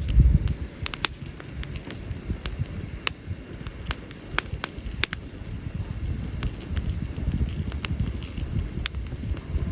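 Wood campfire crackling: irregular sharp pops and snaps from the burning logs, several a second, over a steady low rumble that is loudest at the very start.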